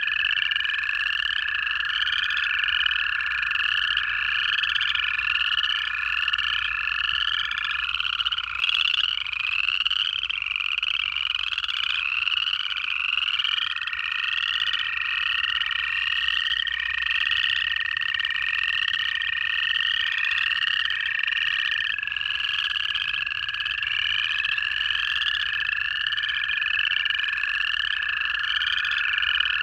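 Pond chorus of upland chorus frogs giving rising trills, many overlapping and repeating without pause. Under them run long, steady, lower trills of American toads: one fades out about eight seconds in, another starts around thirteen seconds, and the next takes over a little after twenty seconds.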